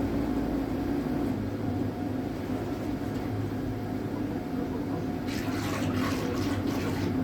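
Battery-electric drive of a solar trimaran humming steadily while the boat is under way, with water washing against the hull. A burst of splashing comes about five seconds in.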